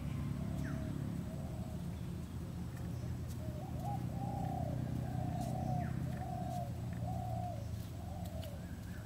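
A bird, likely a dove, calling in a series of cooing notes, each about half a second long, starting about three and a half seconds in, over a steady low rumble.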